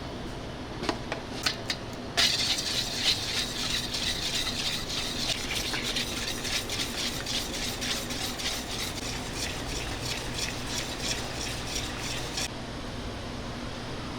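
Kitchen utensil handling: a few sharp taps, then about ten seconds of continuous scraping and stirring with rapid clicks, which stops abruptly.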